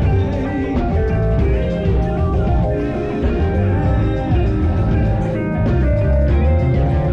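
Band playing rock music, guitar over a heavy bass low end.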